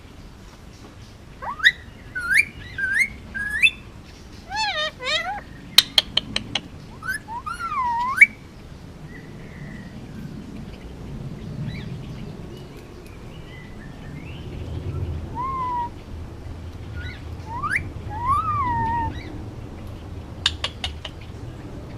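Male Indian ringneck parakeet whistling and chirping in short, gliding calls, with a quick run of sharp clicks about six seconds in. After about eight seconds the calls thin out to a few scattered whistles, and a couple of sharp clicks come near the end.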